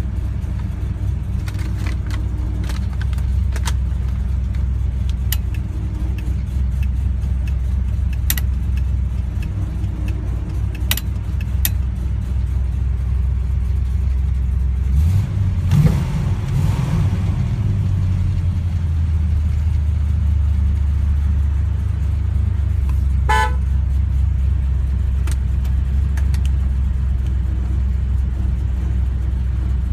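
Classic car engine idling with a steady deep rumble, heard from inside the cabin, with one brief blip of the throttle about halfway through. A short horn-like toot sounds about three-quarters of the way in.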